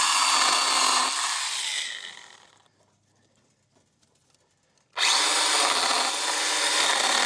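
Stihl mini pruning chainsaw running in two bursts of a couple of seconds each, with a few seconds of quiet between. The first winds down after about a second at full speed. The chain is cutting into tangled branches.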